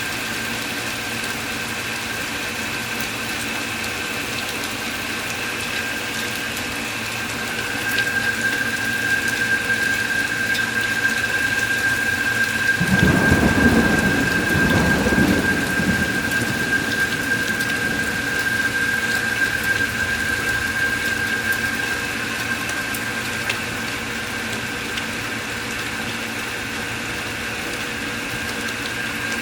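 Steady rain during a thunderstorm, with a rumble of thunder about 13 seconds in that lasts around three seconds. A steady high-pitched whine sounds from about 8 seconds in until about 22 seconds.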